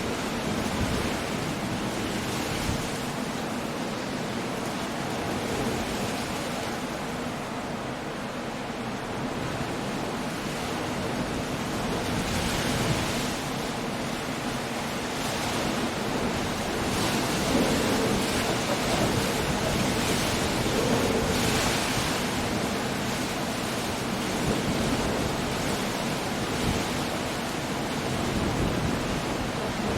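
Storm waves breaking on a rocky coast with wind, a continuous rush of noise that swells louder several times, most strongly past the middle.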